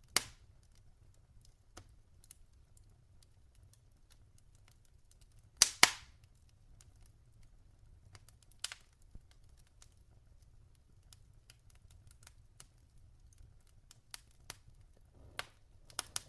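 Logs burning in a fireplace, crackling: scattered faint ticks with a few loud, sharp pops, the loudest a pair about six seconds in.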